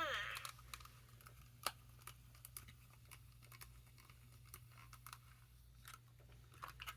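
Near silence: a low steady room hum with a few soft, scattered clicks, the clearest about two seconds in.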